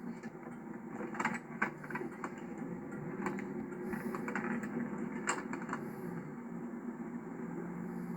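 Steady low engine and road hum inside the cabin of a 1991 Chevrolet Caprice Classic, with a few scattered sharp clicks and knocks. The loudest clicks come about a second and a half in and about five seconds in.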